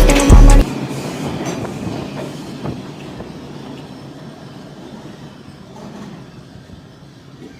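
Rap music with a heavy bass beat cuts off about half a second in. Then an R142 subway train pulls away and its rumble fades steadily into the distance, with a few faint wheel clicks.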